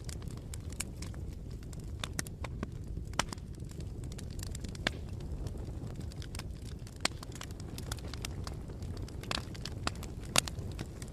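Bonfire of wood burning, with irregular sharp crackles and pops over a steady low rush. The loudest pop comes near the end.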